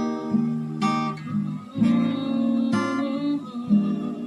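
Acoustic guitar strumming chords, about one strum a second, the notes ringing on between strums.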